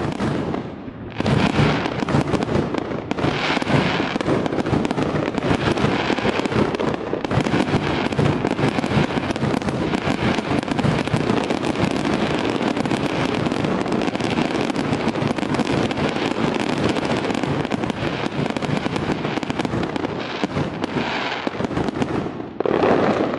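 Fireworks display at full barrage: many aerial shells bursting in quick succession, their bangs and crackles running together into one dense continuous roll. It starts abruptly about a second in and fades out near the end.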